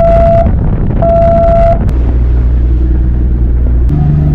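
A sightseeing boat pulling away: two short, steady blasts of its horn or whistle, then its engine running with a steady drone that shifts pitch near the end as the engine speed changes.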